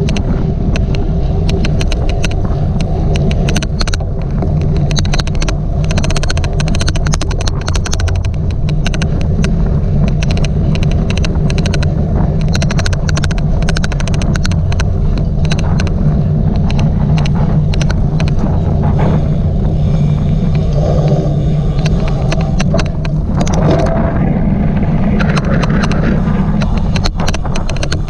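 Cyclocross bike being raced over the course: a loud, steady low rumble with an odd, rapid and irregular clicking that runs right through it.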